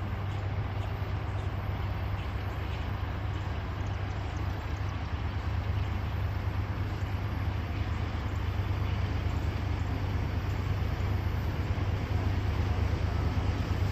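Steady low rumble of a train, growing slightly louder toward the end.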